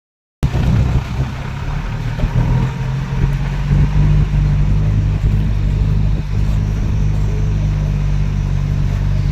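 A motor vehicle's engine running steadily: a low, constant drone with noise over it. It starts abruptly about half a second in.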